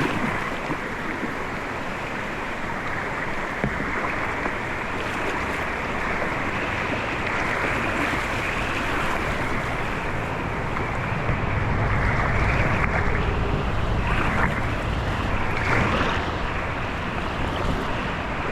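Rushing river whitewater around a kayak, a steady hiss of moving water. A low rumble of wind on the microphone joins it about two-thirds of the way through.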